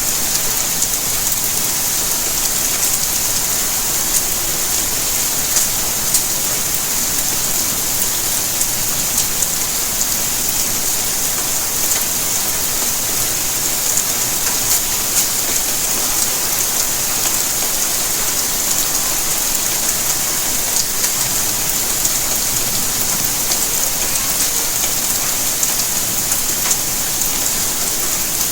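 Steady rainfall: a constant, even wash of falling rain with many small drop ticks scattered through it.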